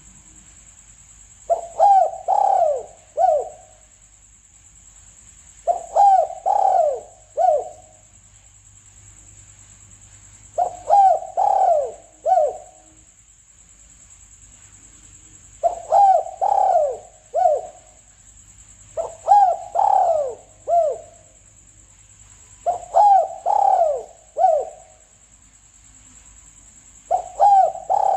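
Spotted dove (tekukur) lure call: a repeated cooing phrase of a few quick coos and a last note set a little apart, coming about every four seconds, seven times. A faint steady high-pitched hiss runs under it.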